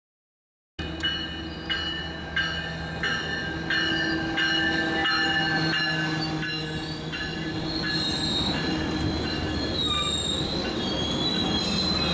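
A BNSF light-engine power move, diesel freight locomotives running without cars, passing by. Their steel wheels squeal against the rail in a high, steady tone over a low rumble, with a regular click about every 0.7 s from the wheels crossing rail joints. The sound starts suddenly about a second in.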